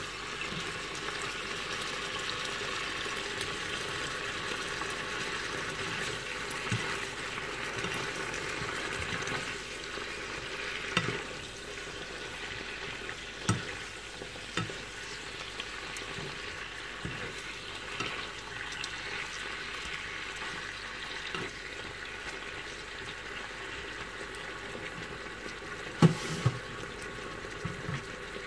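Chopped turkey pieces sizzling steadily as they fry in oil in a pan, with a few sharp knocks of the spatula against the pan; the loudest pair comes near the end.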